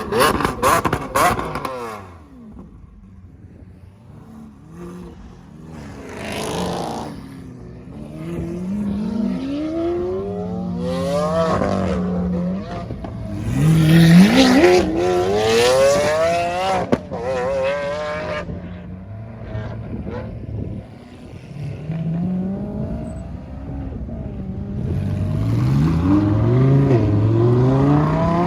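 High-performance sports car engines revving and accelerating away in several separate pulls, their pitch rising with each one. The loudest pull comes about halfway through, and another builds up near the end.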